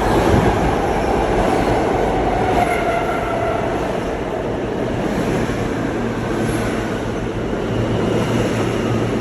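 New York City subway E train pulling into a station: steady rumble of wheels on rail and running gear, with a faint whine that falls in pitch a few seconds in as the train slows.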